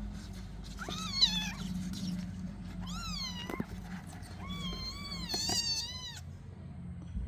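Kittens mewing: high-pitched cries about a second in and again around three seconds, then a longer run of mews joined together near the end. A sharp tap sounds about a second in.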